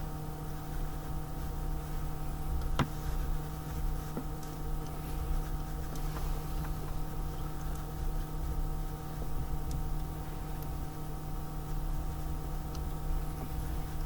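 A steady hum of a few fixed tones, with a handful of sharp small clicks from hand work on the engine; the loudest click comes about three seconds in.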